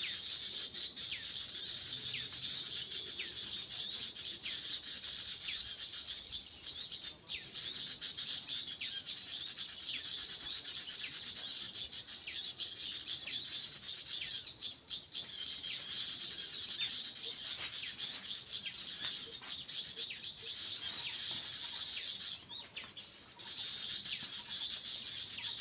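Birds calling: a string of short chirps that slide down in pitch, one or two a second, over a steady high drone.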